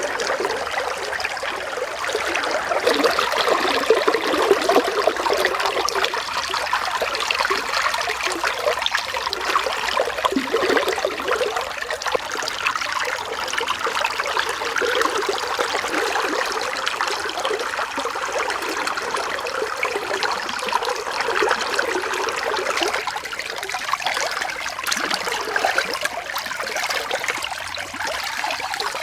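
Running water trickling and splashing steadily, as from a small stream.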